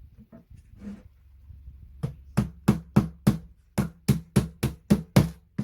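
A hammer knocking on a piece of flat-pack furniture during assembly. There are a few soft taps, then from about two seconds in a quick run of about a dozen sharp blows, about three a second, that stops at the end.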